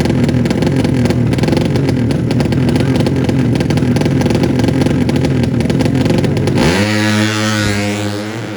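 Drag-bike motorcycle engine, a 200cc, running loud at high revs with rapid firing pulses; it cuts off abruptly near the end, replaced by sweeping tones.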